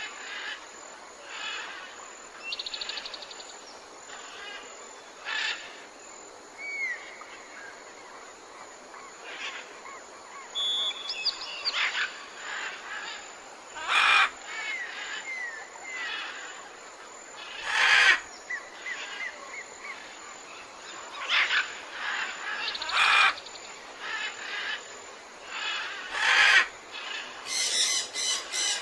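Several birds calling and singing: short chirps, trills and a few harsher loud calls at irregular intervals, over a faint steady background hiss.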